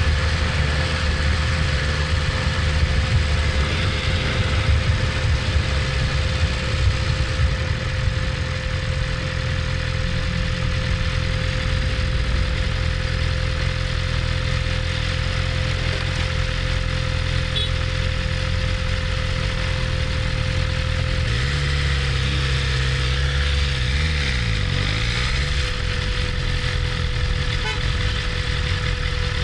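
BMW S1000RR's inline-four engine running in traffic, steady for most of the time; its pitch shifts a little past two-thirds in, then dips down and comes back up briefly.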